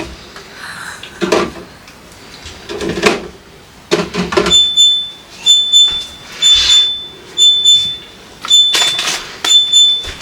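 A refrigerator's door-open alarm beeping, a high single-pitched beep repeating about once a second from around halfway in, which signals that the fridge door has been left open. Before it, bottles and food containers knock and clatter as they are handled.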